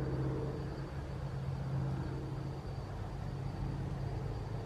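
Low steady hum of a motor vehicle's engine on a nearby road, over faint outdoor background noise; the hum's higher part fades about two and a half seconds in.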